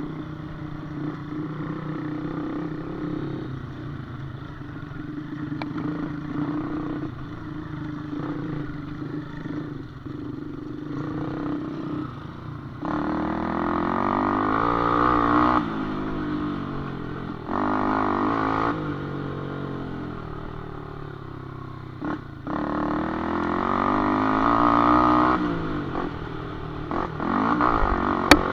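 Small underbone motorcycle engines running at a dirt cupcross track, repeatedly revving up and dropping back, with several loud rising-and-falling passes in the second half. There is a single sharp crack near the end.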